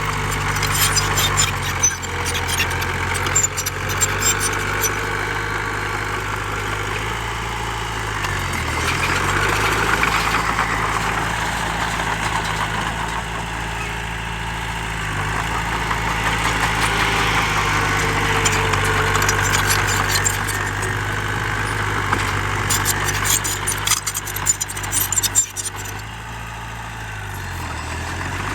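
Diesel engine of heavy earthmoving machinery running steadily, its pitch dipping briefly and recovering about three times. Bursts of sharp rattling clatter come near the start and again a few seconds before the end.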